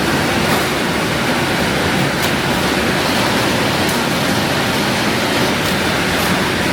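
Steady, loud rushing noise of food-factory processing equipment, unbroken throughout, with no distinct knocks or tones.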